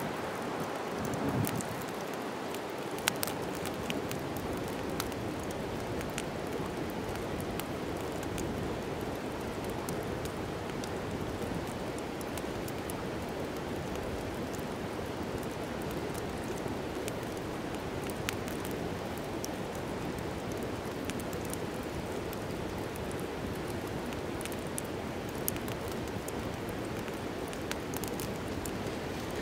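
Wood fire burning in a fireplace: a steady hiss and rush of flames with scattered crackles and a few louder pops spread through.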